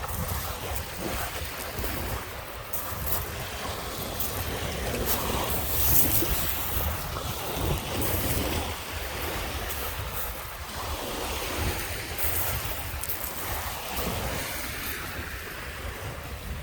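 Lake Michigan waves washing onto the beach, with surges about six seconds in and again around twelve seconds, over wind buffeting the microphone with a steady low rumble.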